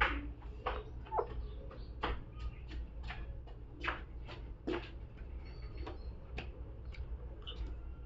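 Pet parrot making a string of short, sharp clicks and chirps at irregular intervals, about two a second, over a steady low hum.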